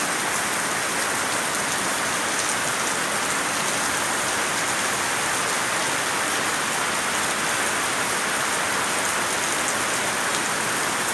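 Steady rain falling and pattering on surfaces, an even hiss without pauses.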